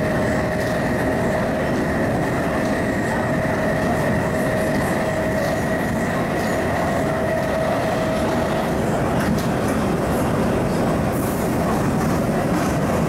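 MTR East Rail Line Metro-Cammell (MLR) electric multiple unit running at steady speed: a continuous rumble of wheels on track with a steady two-pitched motor whine. The lower pitch of the whine fades out about nine seconds in.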